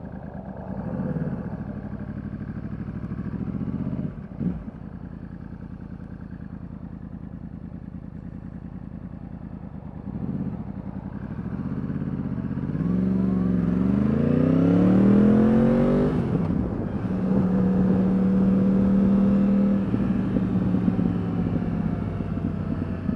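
Yamaha R1 sport bike's inline-four engine running at low revs, then accelerating hard with the revs climbing for a few seconds past the middle, a brief break at the gear change, and then holding a steady pitch while cruising.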